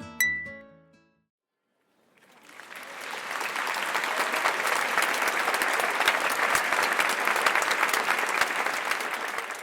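Acoustic guitar music ends on a single bright note, then after a moment's silence a crowd applause builds, keeps up steadily, and fades away near the end.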